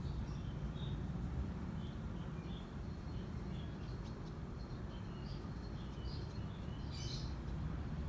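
Small birds chirping in short, high notes scattered throughout, with a brighter cluster near the end, over a steady low rumble.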